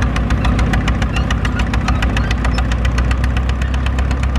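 Vintage tractor engine running steadily under ploughing load, with an even, rapid firing beat; it sounds very sweet.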